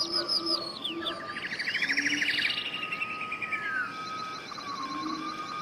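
Several birds calling and singing together: quick chirps, a fast trill about two seconds in, and sweeping whistled glides, over a steady thin high tone.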